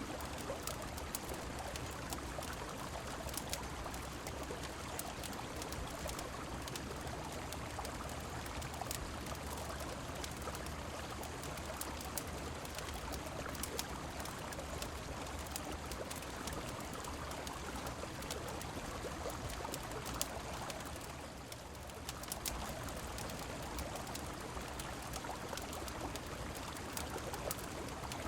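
Steady rush of flowing river water mixed with rain, with scattered faint sharp clicks through it. The level dips briefly about three-quarters of the way through.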